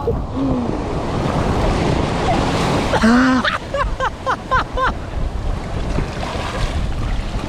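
Ocean surf breaking and washing around, with wind rumbling on the microphone. A voice calls out briefly about three seconds in.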